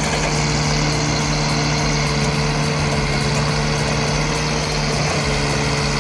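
A heavy machine's engine running steadily at a constant pitch.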